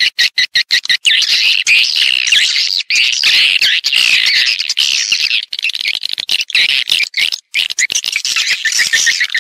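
Edible-nest swiftlets twittering in a dense, overlapping chorus of rapid high chirps, broken by frequent brief gaps. This is a call-and-roost lure recording of the kind played to draw swiftlets into nesting houses.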